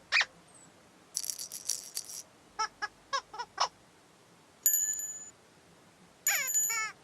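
Playful cartoon sound effects in a string of short separate sounds. A quick pitched swoop is followed by a rattle-shaker shake, then five short bouncy notes, a bright bell-like ring and a few quick chirps.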